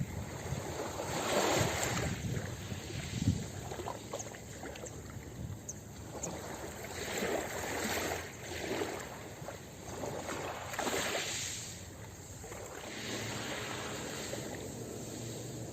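Ocean waves breaking and washing onto a beach, the surf swelling and fading every few seconds.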